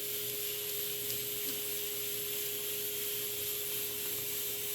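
Steady hiss with a faint constant hum and a few faint ticks.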